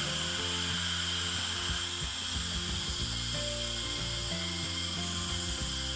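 Steam hissing steadily out of a stovetop pressure cooker's valve during a quick pressure release, with a whistling edge; it cuts off abruptly at the end. Background music plays underneath.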